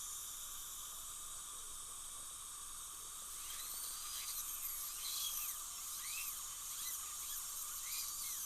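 High-speed dental air-turbine handpiece running with its water spray, cutting an access opening through an implant crown to reach the abutment screw: a steady high hiss and whine, and from about three seconds in its pitch repeatedly dips and recovers as the bur bites.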